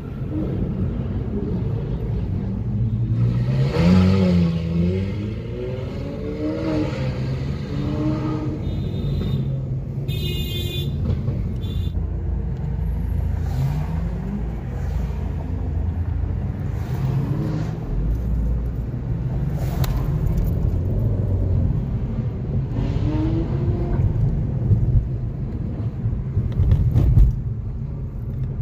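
Supercar engines revving up and easing off several times in convoy, over a steady engine rumble and road noise heard from a following car. A brief high-pitched tone comes about ten seconds in, and there are a couple of sharp loud blips near the end.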